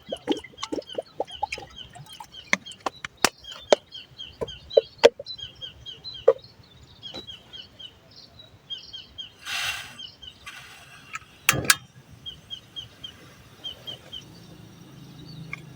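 A bird calling in quick runs of short, high chirps that repeat through the clip. Scattered sharp clicks and knocks sound over the calls, with a short rustle a little past halfway.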